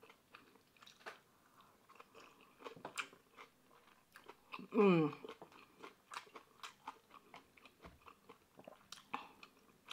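Close-miked chewing of kimchi, with small wet crunches and mouth clicks throughout. About five seconds in there is a short hummed voice sound.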